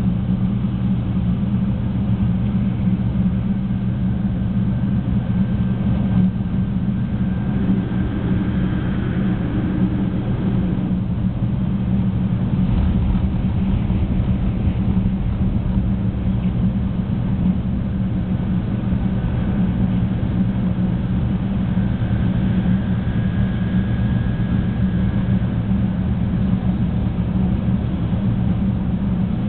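Interior running noise of a Shinkansen 300 series passenger car at speed: a steady low rumble and hum from the running gear on the rails. A faint high whine comes and goes twice.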